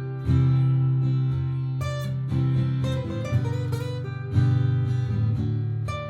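Martin GPCPA4 acoustic guitar playing through a looper: a repeating strummed chord pattern with plucked single notes over it. Loud chords land about a quarter second in and again past the four-second mark.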